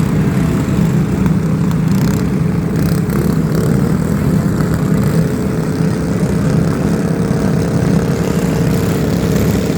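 Steady, loud, low vehicle rumble with a faint steady hum above it.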